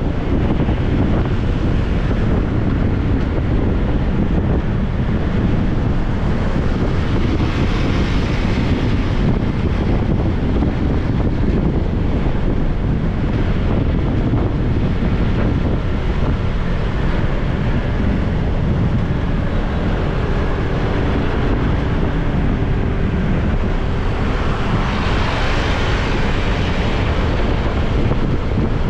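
Wind buffeting the microphone of a moving motorbike, a steady rushing over the low rumble of the bike and road, with two swells of brighter hiss, one about eight seconds in and one near the end.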